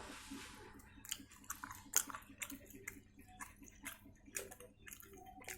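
Close-miked mouth sounds of someone chewing fried chicken: irregular wet clicks and smacks of the mouth and lips.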